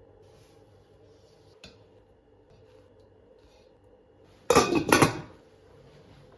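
Dishes and cutlery clattering: a faint click, then two loud clatters close together about four and a half seconds in.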